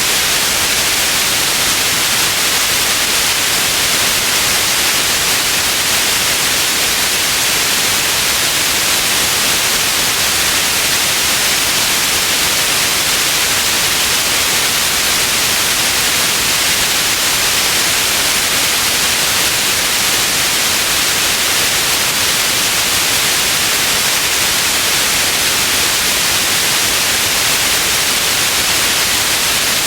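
Steady white noise: an even, unbroken hiss weighted toward the high end, with no change in level throughout.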